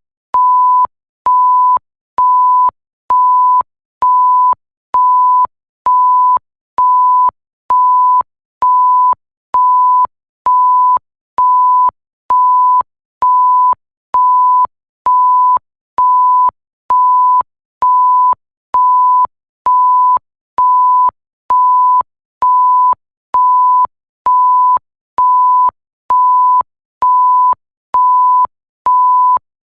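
Electronic bleep tone, one pure pitch, repeating evenly about once a second, each beep about half a second long.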